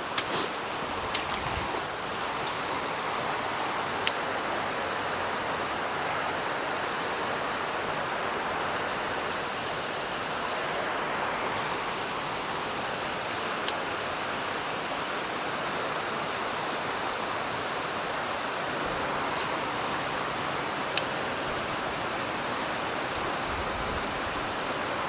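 Mountain creek water rushing steadily over rocks, with a few single sharp clicks standing out above it.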